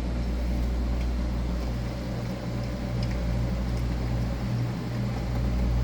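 Samsung CF-1148D commercial freezer running with a steady low hum from its compressor and fan motors, which have just been replaced.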